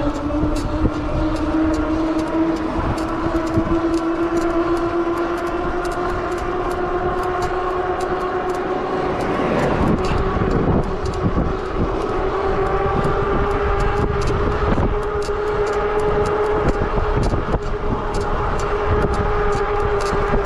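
Cyrusher XF900 e-bike's 750 W Bafang hub motor whining under pedal assist level 5, its pitch climbing slowly as the bike gathers speed and then levelling off. Wind buffets the microphone throughout, with a brief swelling whoosh about halfway through.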